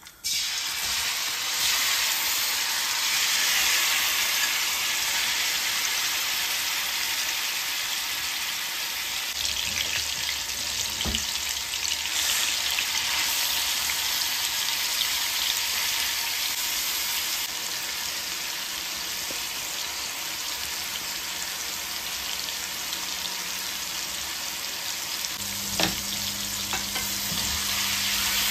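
Marinated chicken pieces sizzling in hot oil in an aluminium kadai, the sizzle starting suddenly as they are tipped in and then holding steady. A wooden spatula stirs them and knocks against the pan a couple of times.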